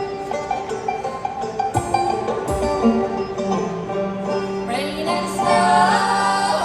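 Live string band playing an instrumental passage, with banjo and guitar picking prominent. About five seconds in, a brighter, bending melody line enters over the picking.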